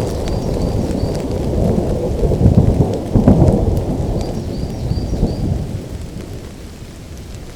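Rolling thunder over steady rain. The rumble swells about three seconds in, then dies away toward the end.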